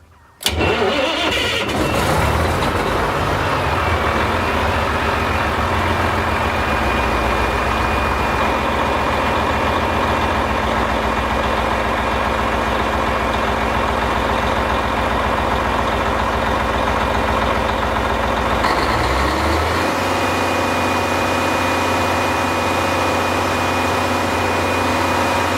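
Detroit Diesel Series 60 inline-six turbocharged diesel engine of a 400 kW generator set starting about half a second in, then running steadily and loudly. About 19 seconds in its sound shifts briefly and settles into a steadier, more even tone.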